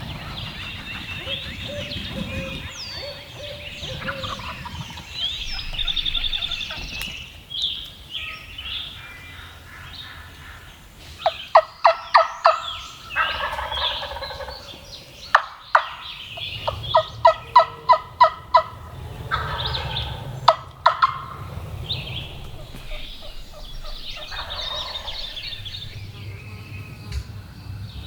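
Eastern wild turkeys calling, with two loud runs of sharp, evenly spaced notes about eleven and seventeen seconds in, over fainter bird calls.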